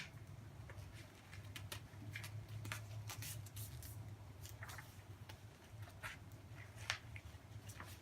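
A sheet of paper being folded and creased by hand, with short irregular rustles and crinkles as the slanted edges are pressed down.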